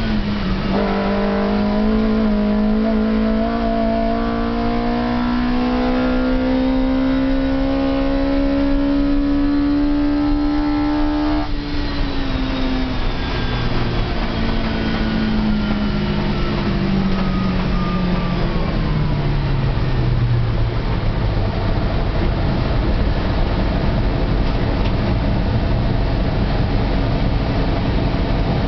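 Fiat 128 race car's four-cylinder engine, heard from inside the cabin. It pulls in one gear with its pitch climbing steadily after a quick gear change about half a second in. About eleven seconds in the revs drop, and the engine note falls away over several seconds with a whine falling alongside it, then settles into a low, steady run as the car slows.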